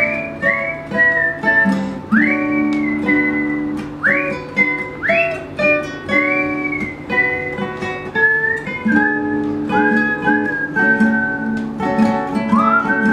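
Acoustic guitar playing chords under a whistled melody. The whistled notes scoop up into each pitch and hold, in phrases of one to three notes.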